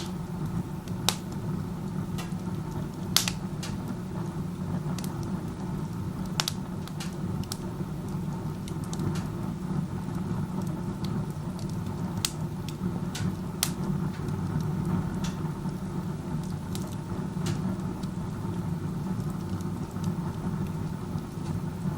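Wood fire in a wood-burning stove run with its door open, drawing hard up the chimney with a steady low rumble. Sharp pops and crackles from the burning wood come every second or two. The rumble is the sound of a very strong chimney draft pulling air in through the open door.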